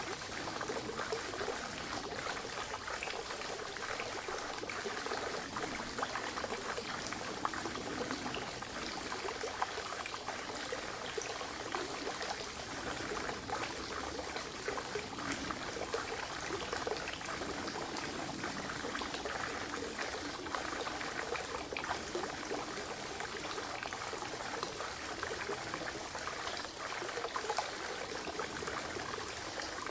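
Spring water trickling and splashing steadily into a forest pond, a continuous babble of small splashes.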